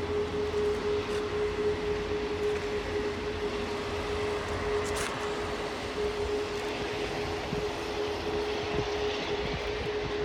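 Airbus A380 jet engines running steadily: a broad roar with a constant whine.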